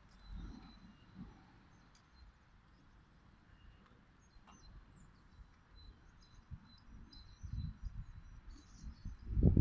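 Small birds chirping, short faint calls scattered throughout, over outdoor background noise. Low rumbles and thumps build up in the last few seconds, the loudest near the end.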